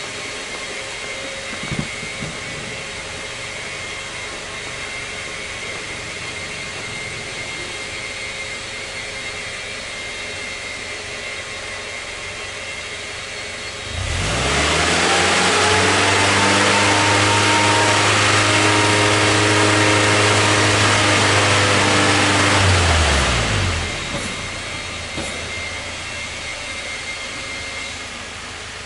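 Toyota Hilux Surf SSR-X engine idling, then revved up about halfway through and held at a steady raised speed for around nine seconds before dropping back to idle.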